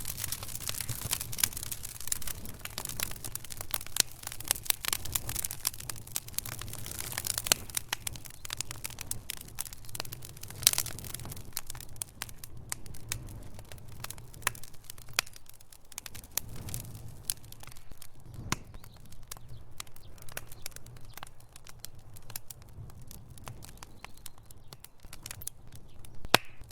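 Wood logs burning in a fireplace, crackling with many sharp pops over a low steady rumble of the flames. The crackling is dense in the first half and thins out after about twelve seconds, with a few louder single pops.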